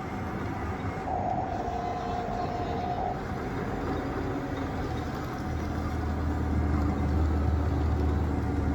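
Radio-controlled toy construction machines running, with a steady mechanical drone. A held higher tone sounds for about two seconds near the start, and a deeper hum comes in and grows louder about five seconds in.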